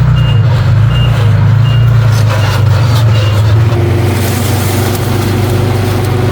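Heavy diesel earthmoving machine running under load, with its reversing alarm beeping at a steady pace that stops about halfway through.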